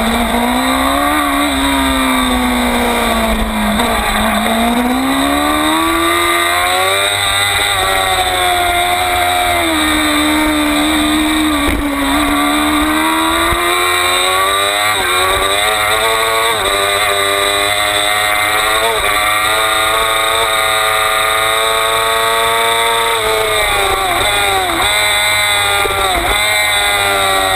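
Onboard sound of a 600 cc racing motorcycle's engine at high revs. Its pitch sweeps down and back up again and again as the bike slows and accelerates through the corners, with a deep dip about four seconds in and shorter dips later on. Wind rumbles on the microphone underneath.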